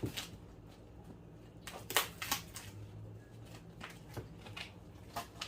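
Handling of a packaged meat tray: a few short crinkles and snaps of plastic wrap and a styrofoam tray, over a low steady hum.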